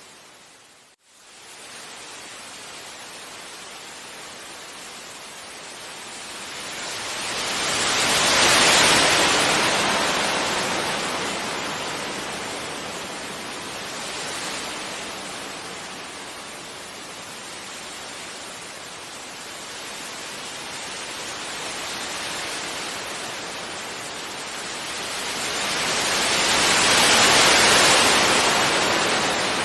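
Sea waves breaking gently on a beach: a steady hiss of surf that swells into two larger waves, one about eight seconds in and one near the end, with smaller surges between them. About a second in, the sound briefly cuts out almost completely and then returns.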